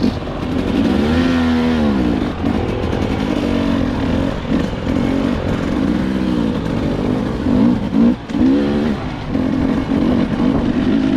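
Two-stroke dirt bike engine being ridden, the throttle opened and closed over and over so the engine note repeatedly climbs and drops.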